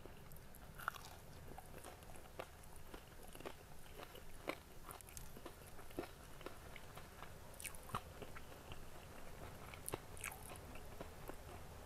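A person chewing crispy battered tempe geprek with chilli sambal, a faint run of small irregular crunches and mouth clicks.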